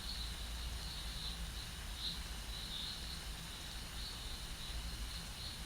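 Steady rain ambience: an even hiss with a thin, high, steady note running through it and a low rumble underneath.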